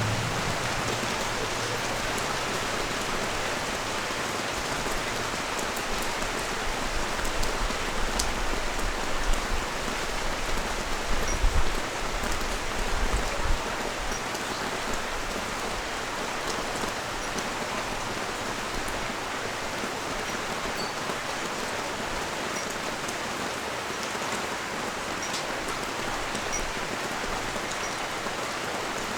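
Steady heavy rain falling on a street and nearby surfaces, a dense even hiss of many drops. A brief low rumble rises under it near the middle.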